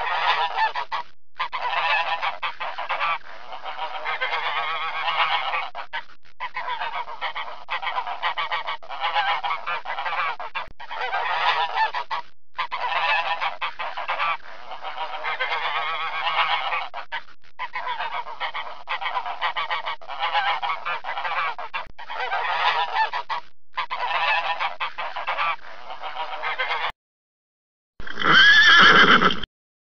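A flock of waterfowl honking, many calls overlapping in choppy stretches broken by short gaps. Near the end a horse whinnies once, briefly and louder than the honking.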